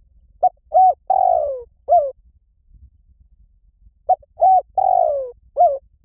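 Spotted dove cooing: two matching phrases about three and a half seconds apart, each of four notes: two short coos, a longer coo that falls in pitch, and a short closing coo.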